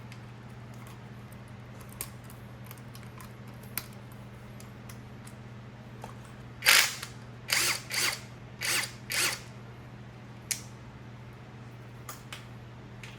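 Five short bursts of a power tool working fasteners, clustered about seven to nine seconds in, with scattered light clicks around them over a steady low hum.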